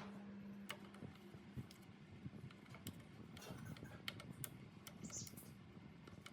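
Faint, irregular light clicks and taps, with a low steady hum that stops under a second in.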